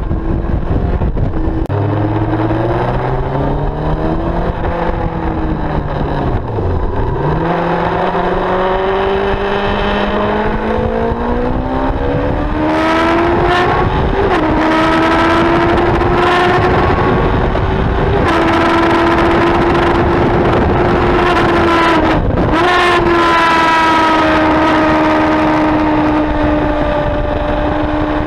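Sports motorcycle engine heard onboard on a sighting lap: its pitch climbs and drops sharply at gear changes, about a quarter of the way in, at the halfway point and about three-quarters through, then holds fairly steady near the end.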